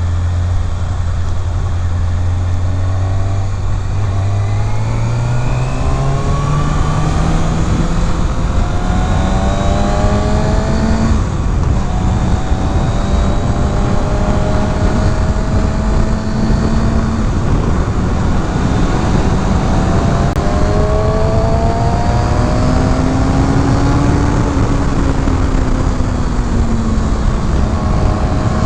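Kawasaki Ninja ZX-6R inline-four engine running under way, its note climbing steadily over the first several seconds, then holding and rising and falling a few times as the throttle changes, over a constant rush of wind.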